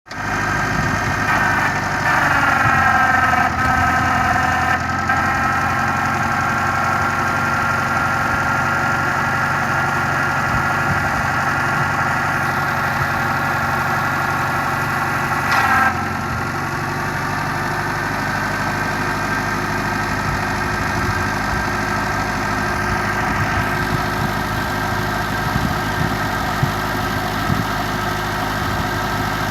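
Forklift engine running at idle, its pitch falling and settling early on, with a brief louder burst about sixteen seconds in before it runs steadily again.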